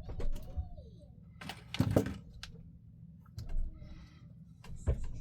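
Scattered clicks and clatters of tools and small parts being handled on a workbench during wire soldering work, with a steady low hum underneath.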